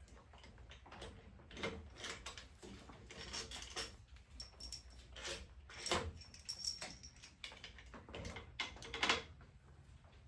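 Intermittent clicks, clinks and scrapes of engine parts and tools being handled during a motorcycle top-end teardown, with louder knocks about six and nine seconds in.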